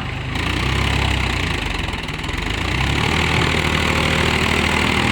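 Mahindra tractor's diesel engine running. It gets louder about a second in, eases back, then builds again after about three seconds.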